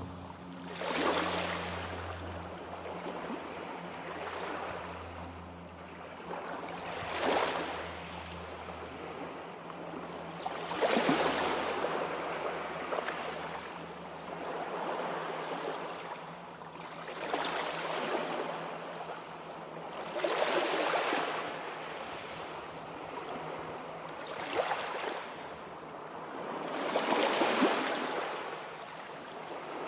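Sea waves breaking and washing on the shore, the surf swelling in surges every few seconds over a constant hiss of water. A faint low hum sits under the first half and fades out.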